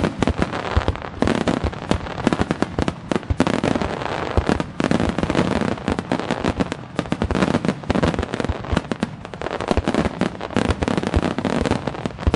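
Rapid-fire fireworks display: a dense barrage of bangs and crackling from many shells and fans of stars fired in quick succession, many bursts a second without a break.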